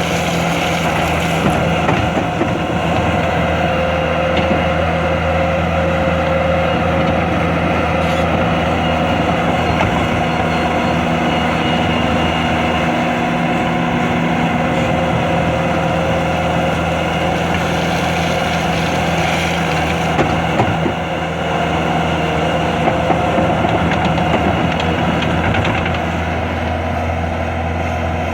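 2010 Bobcat compact track loader's diesel engine running steadily, a constant engine hum with a brief dip in level about two-thirds of the way through.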